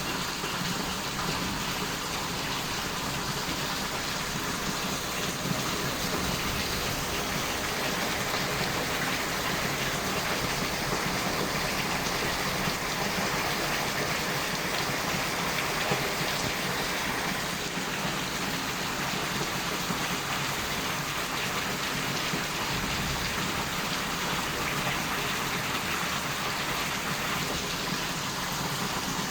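Rain falling steadily in a thunderstorm, an even hiss of rain without a break.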